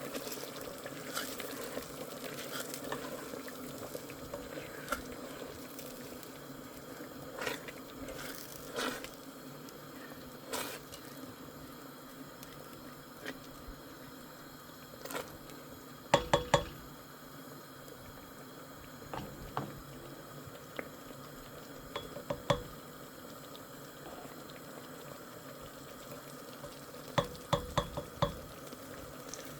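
Kitchen pot-and-utensil sounds over a steady low background hiss: scattered light clicks, and sharp ringing metal clinks of a utensil knocked against a pot in quick groups of three or four, about halfway through, again a few seconds later, and near the end.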